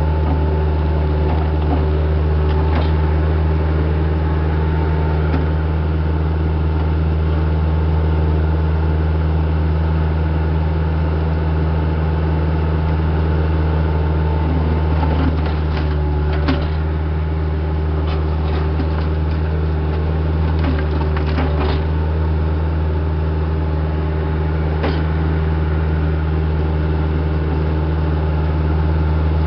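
Diesel engine of a piece of heavy equipment running steadily, a deep constant drone. A few scattered knocks and clanks come through the middle and later part.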